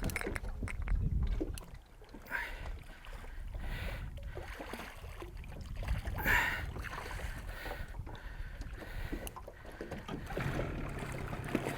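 Wind and water noise around a small fishing boat: a steady low rumble with scattered light knocks and splashes.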